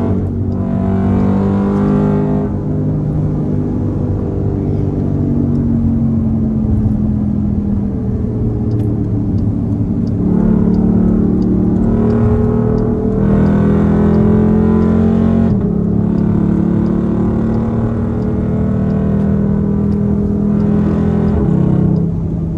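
Straight-piped 6.4-litre HEMI V8 exhaust of a Dodge Durango SRT 392 under hard acceleration, its pitch climbing and dropping back several times as it pulls through the gears.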